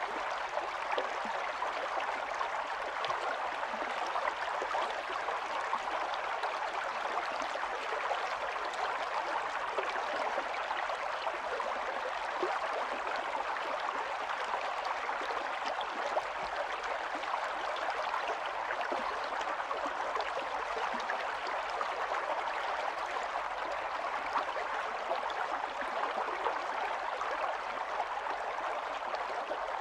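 Stream running steadily over stones, an even gurgling wash of water.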